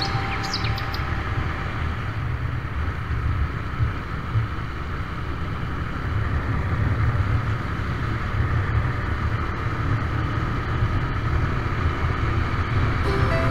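Road vehicle running steadily while on the move, a constant low rumble with wind noise on the microphone.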